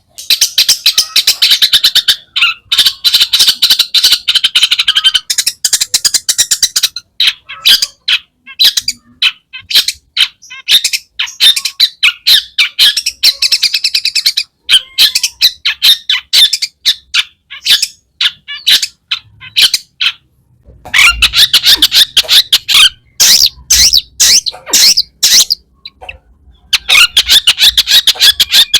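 Long-tailed shrike (cendet) singing a loud, rapid, chattering song of harsh squawks and chirps packed with mimicked phrases from other birds. The song breaks off briefly twice, about twenty seconds in and again near the end.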